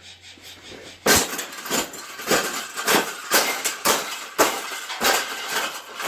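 Wire bird cage being bent and banged into shape: an uneven series of sharp metallic clanks and rattles, about two a second, starting about a second in.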